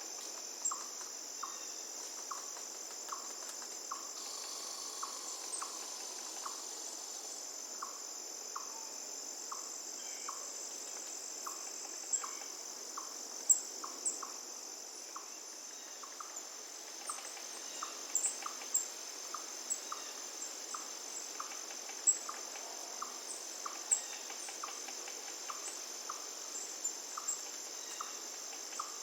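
Forest ambience: a steady high-pitched insect trill over a faint hiss of running water, with a short pip repeating about every two-thirds of a second and scattered sharp bird chirps.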